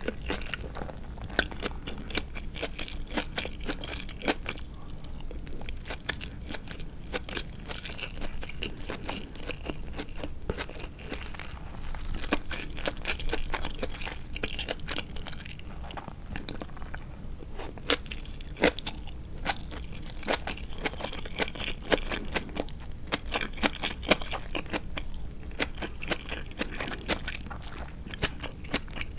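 Close-miked crunchy chewing of tatsuta-age (crisp-coated Japanese deep-fried marinated chicken): a steady run of small crackles with now and then a louder crunch.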